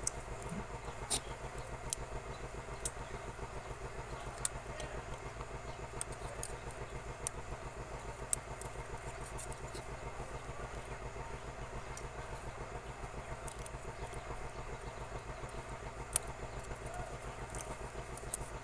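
An engine running steadily in the background, with a handful of sharp light clicks scattered through it, made while piston rings are being fitted onto a power tiller's pistons.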